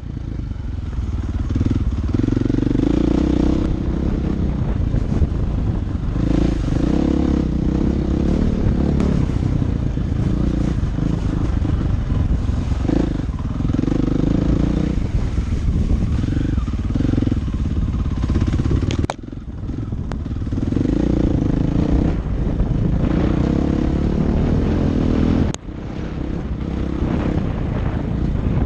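Dirt bike engine running under changing throttle while being ridden, its pitch rising and falling. The sound breaks off sharply and picks up again twice, about two-thirds of the way through and near the end.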